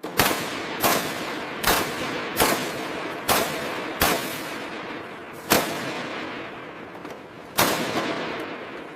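A series of about eight sharp, loud bangs at uneven intervals, each trailing off in a long fading rumble.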